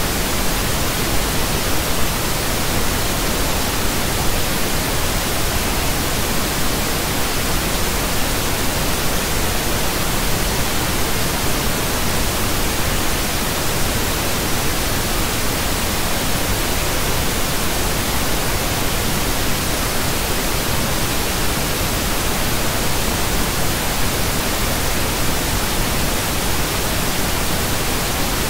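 Pink noise: a steady, even hiss across the whole range, without tones or changes.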